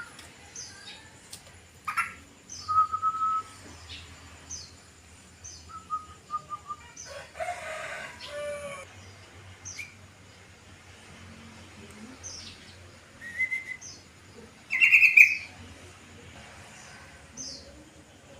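Yellow-vented bulbuls (trucukan) calling: short whistled notes and chirps, with a harsher chattering run about halfway through and a loud bright note near the end.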